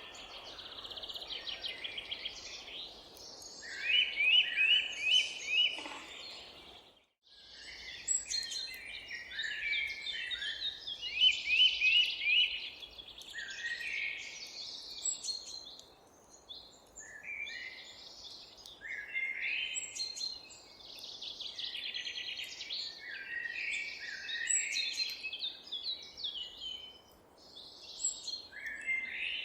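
Several songbirds singing at once, with quick repeated trills and chirps overlapping continuously over a faint background hum. The sound cuts out briefly about seven seconds in, then the birdsong resumes.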